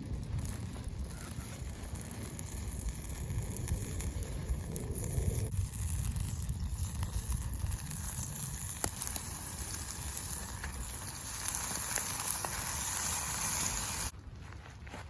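Wood fire in a Picogrill fire pit crackling, with scattered sharp pops and a sizzling hiss from the cooking. The sound changes abruptly about five and a half seconds in and drops off a second before the end.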